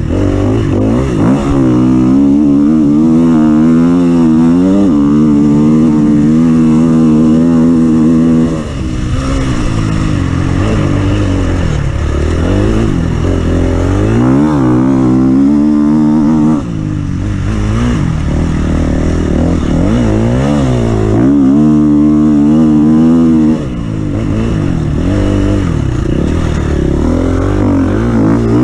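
Off-road vehicle engine running hard, its pitch rising and falling as the throttle is worked, with sudden drops about a third of the way in, just past halfway and near the end as it comes off the throttle.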